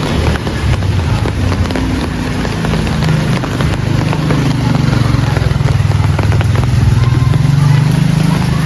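Heavy rain falling steadily, with many small drop impacts, over a low engine hum that grows a little louder toward the end.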